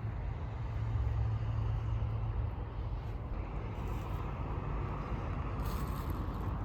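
Motor vehicle running on the road: a steady low engine and road rumble, somewhat stronger in the first couple of seconds.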